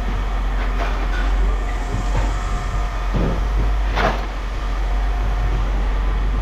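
Heavy machinery running with a steady low drone, with a few sharp metal clanks, the loudest about four seconds in.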